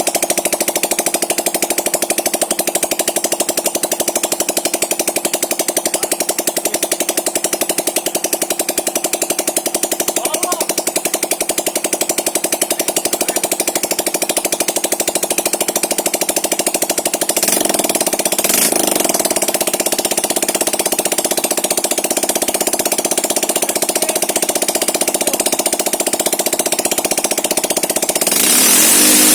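139QMB 80cc four-stroke single-cylinder scooter engine running steadily just after starting, picking up revs and getting louder near the end.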